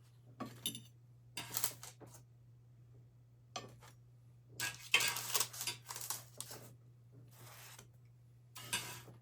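Dishes and cutlery clinking and scraping in a string of short, irregular bursts, busiest near the middle, over a faint steady low hum.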